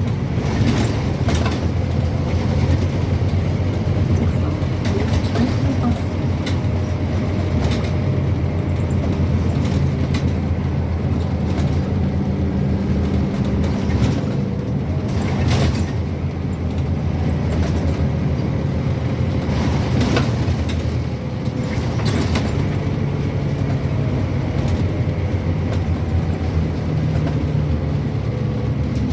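Scania N230UB OmniCity bus heard from on board: the diesel engine drones steadily while under way, with rattles and knocks from the body now and then.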